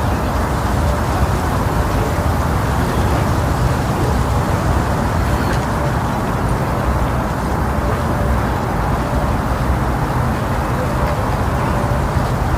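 Steady, loud wind, blowing and rumbling on the microphone, with no distinct calls or barks standing out.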